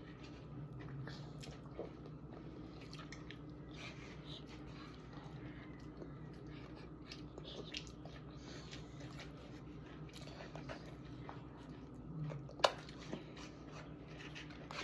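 Quiet eating at a table: soft chewing and small clicks of utensils and dishes over a steady low hum, with one sharp click near the end.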